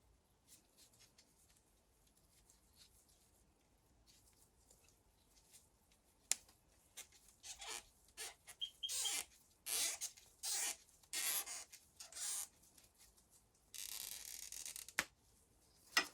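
Hand work on a small part: a run of short scraping or rasping strokes, each under half a second, with a few sharp clicks, and a longer hiss near the end.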